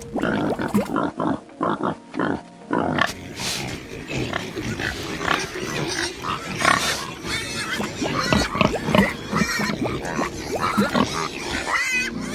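Thick mud bubbling at a mud volcano vent: a fast, irregular string of gloops and pops as gas bubbles burst through the mud, with a grunting, snuffling quality.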